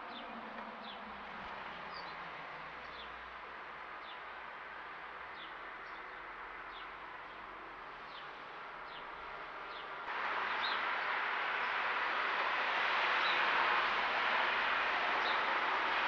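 Faint, short, high downward chirps from a small bird, repeating every second or so over a steady hiss. The hiss jumps louder about ten seconds in.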